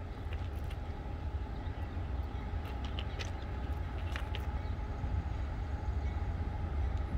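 Norfolk Southern coal train led by a GE AC44C6M diesel locomotive approaching while still far off: a low, steady rumble with a faint steady hum above it.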